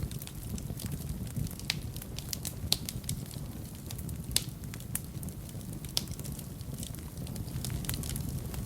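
Wood fire in a fireplace crackling steadily over a low rumble of flame, with irregular small pops and a couple of sharper pops near the middle.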